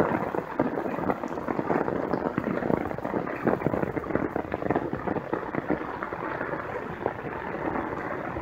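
Steady, dense pattering and splashing of water on floodwater, with no regular rhythm.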